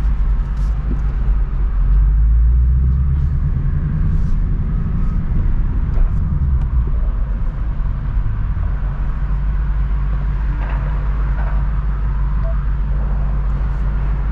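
Stock 2024 Ford Mustang GT's 5.0-litre V8 and active exhaust running at low, fairly steady revs while driving: a deep, even drone with road noise, swelling a little about two to four seconds in.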